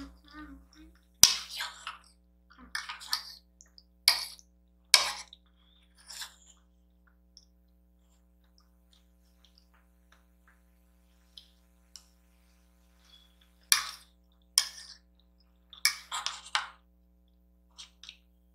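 Close-miked eating sounds: scattered sharp clicks and clinks of utensils against a plate or bowl, with softer mouth and food noises in between.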